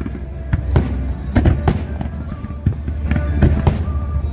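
Fireworks display: a rapid, irregular series of aerial shell bursts and bangs, about two or three a second, over a continuous low rumble.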